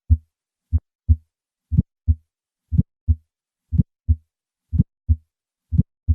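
Heart sounds played as a teaching example: paired first and second heart sounds (lub-dub) about once a second, with silence between them and no murmur yet. From about two seconds in, a sharp ejection click follows closely on each first heart sound, the early systolic click of valvular aortic stenosis.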